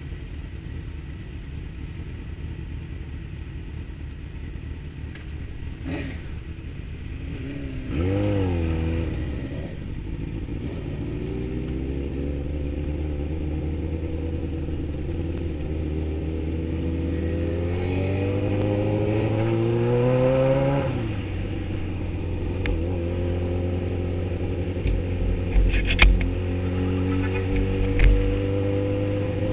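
Motorcycle engine heard from the rider's seat, running low for the first several seconds, then opened up about eight seconds in. The engine note climbs slowly for about ten seconds, dips, then climbs again. A couple of sharp knocks come near the end.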